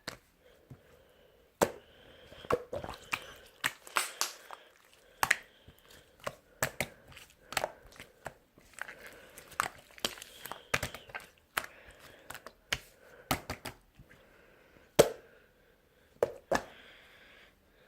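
A person's rough breathing, from a flu that has not fully cleared, between many sharp clicks and crinkling handling noises close to the microphone. One click about 15 seconds in is the loudest.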